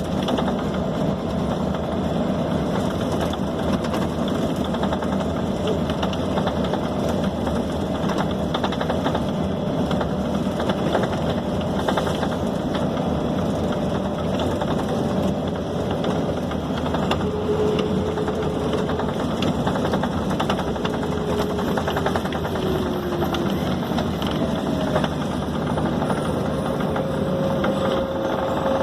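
Scania K270 city bus heard from inside the passenger cabin: its rear-mounted diesel engine runs steadily under way, with the cabin's general road noise and rattling around it.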